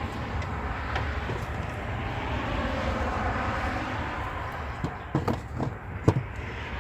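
Steady low outdoor rumble, with a few sharp knocks and clicks about five to six seconds in.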